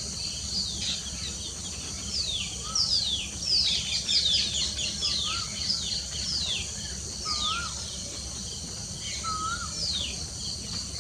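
Several birds calling together: many short whistles that slide downward, overlapping, busiest around the middle, with a lower rise-and-fall call repeating every two seconds or so. A steady high insect drone runs underneath.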